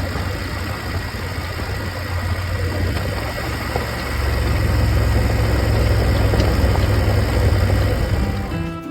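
Motorcycle engine running steadily, growing louder about four seconds in.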